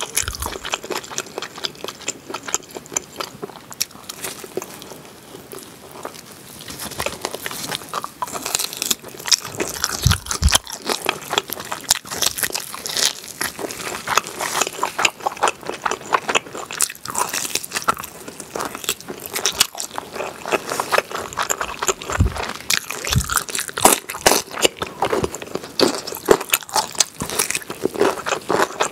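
Close-miked biting and chewing of oven-baked pork back ribs as meat is torn from the bone: a dense run of short clicks and smacks, a little quieter for a few seconds near the start.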